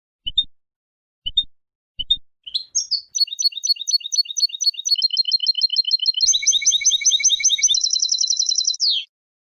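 European goldfinch singing: three short call notes about a second apart, then a long run of fast repeated twittering notes that shifts into a quicker, denser trill and breaks off suddenly near the end.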